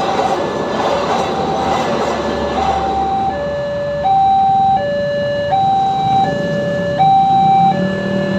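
Railroad crossing warning alarm sounding a steady two-tone high-low signal, each tone held about three-quarters of a second, over the rumble of a passing train that dies away about three seconds in.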